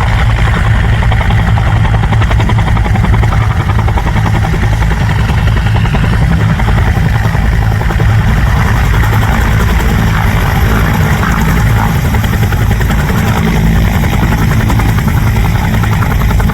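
AH-1F Cobra attack helicopter, its T53 turboshaft engine and rotor running loud and steady with a constant deep hum.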